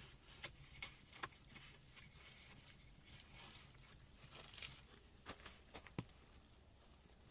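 Faint rustling and crinkling with a few sharp clicks scattered through, like something being handled.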